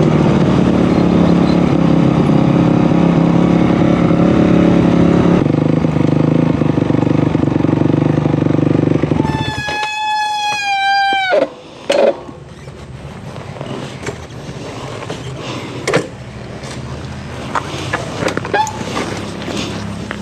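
Off-road side-by-side engine running loudly and steadily. About halfway through, a high whine is held for a couple of seconds and then drops away sharply, leaving quieter engine running with a few knocks and clunks.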